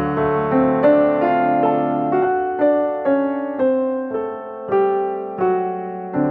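Background piano music: a slow, gentle melody of single struck notes, about two a second, each fading before the next.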